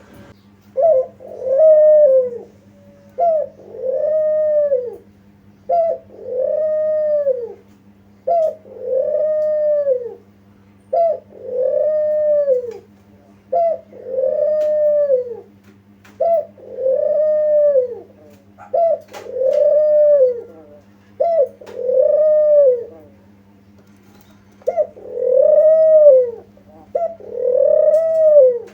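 Spotted dove cooing in a repeated phrase: a short note followed by a longer arched coo, about every two and a half seconds, eleven times, over a steady low electrical hum.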